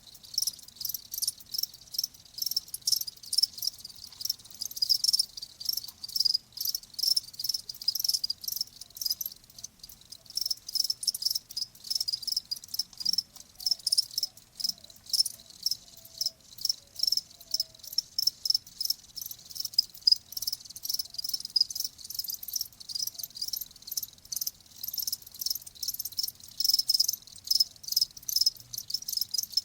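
Crickets chirping: many overlapping, high-pitched chirps in quick pulses, steady throughout.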